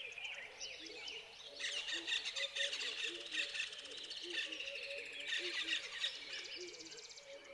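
Several birds calling together: dense, quick high chirps and trills that swell twice, over a repeating series of short low notes about twice a second.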